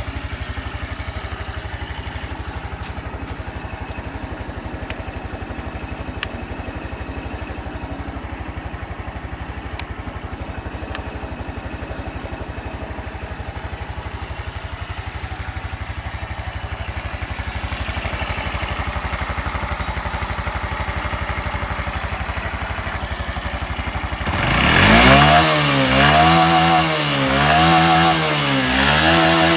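Honda Super Cub 110 (JA07) fuel-injected single-cylinder four-stroke engine idling steadily, then revved up and back down about three times near the end. The seller presents it as running with no abnormal engine noises.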